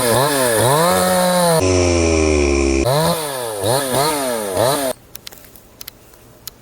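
Two-stroke gasoline chainsaw revved again and again, the engine pitch rising and falling several times, with a steadier, lower-pitched stretch about two seconds in. The engine sound cuts off suddenly about five seconds in, leaving a few faint ticks.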